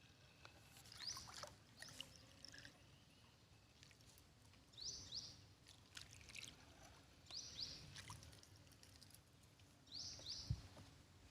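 A bird calling four times, each call a quick pair of high rising notes, about every two and a half seconds, with faint dripping and light water splashes around a small boat.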